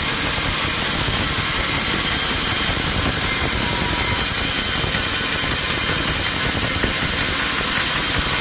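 Sawmill machinery running steadily: a loud, even mechanical noise with a strong high hiss.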